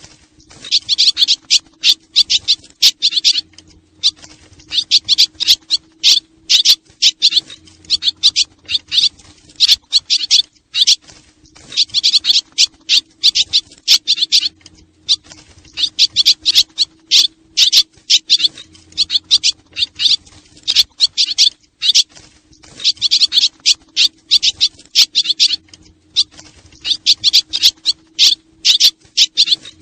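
Swallows twittering: clusters of rapid, high-pitched chirps lasting two to three seconds, repeating every few seconds with short pauses between them, over a faint steady hum. It is a swallow lure call, the sound used to draw the birds in.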